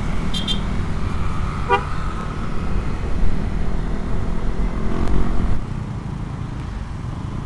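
Yamaha Aerox scooter with a Rob1 aftermarket exhaust riding along, a steady low engine and road rumble that eases off about five and a half seconds in. Short horn toots cut through, one about half a second in and another just under two seconds in.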